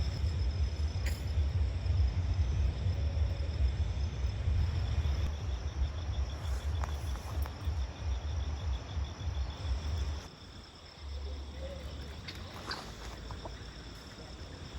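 Insects chirring in a steady pulsing high trill, over a loud low rumble that drops away about ten seconds in.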